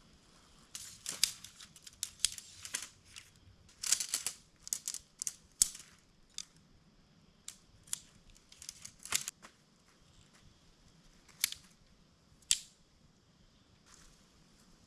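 Tent nylon rustling and crinkling, with clicks as the tent and its poles are handled. The sounds come in irregular bursts, busiest in the first six seconds, then a few single sharp clicks later on.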